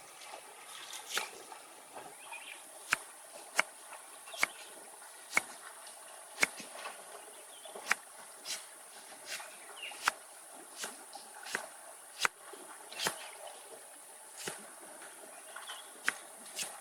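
Wood fire crackling: sharp, irregular pops about once a second over a steady high hiss.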